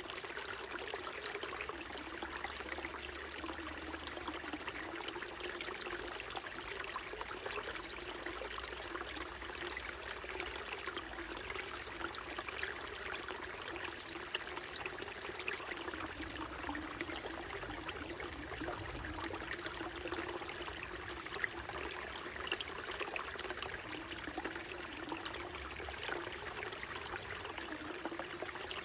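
Small mountain stream flowing steadily over rocks: an even rush of water with many small trickling splashes.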